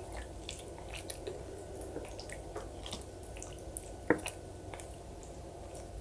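Close-up wet eating sounds of soft rice cakes and dumplings in soup: small squishy mouth smacks and clicks, with one sharper click about four seconds in.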